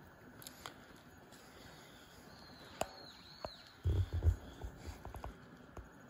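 Faint background noise with a few high, arching bird calls through the middle, then a short cluster of dull low thumps about four seconds in from the phone being handled, and a few light clicks.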